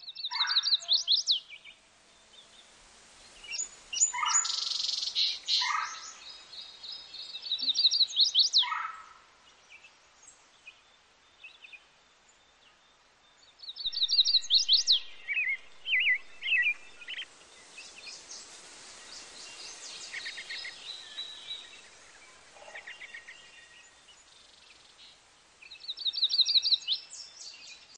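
Songbirds singing and calling, with repeated phrases of quick high chirps and trills that come and go, separated by quieter pauses.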